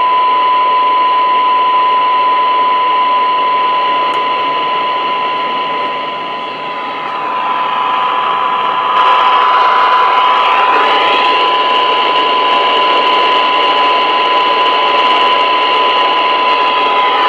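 Stryker SR-440HP CB radio's speaker playing a steady 1 kHz test tone from a weak signal under static hiss. About nine seconds in the hiss grows brighter and louder as the signal is turned down toward the receiver's sensitivity limit, around −110 dBm, where it drops out.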